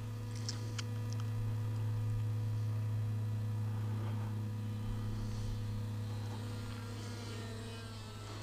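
XK X450 RC plane's electric motors and propellers droning steadily in flight, a low even hum with a fainter, shifting higher whine near the end.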